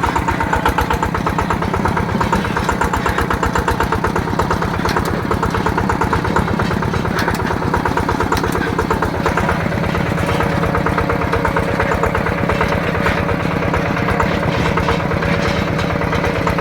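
Yanmar TF120 DI single-cylinder diesel engine of a mini tractor running steadily under way, with an even, rapid beat of firing strokes.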